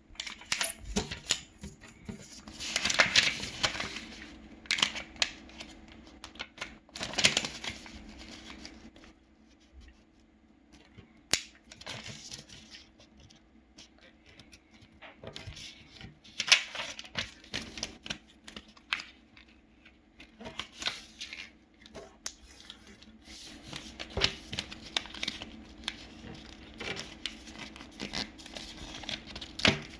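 A sheet of origami paper being folded and creased by hand: irregular rustles, crinkles and sharp swipes, with pauses between folds. A faint steady hum runs underneath.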